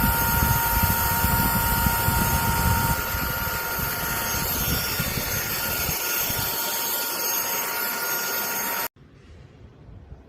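Airbot Hypersonics PRO cordless handheld vacuum cleaner running: a steady rush of air with a high motor whine, a little quieter after about three seconds, then cutting off abruptly about nine seconds in.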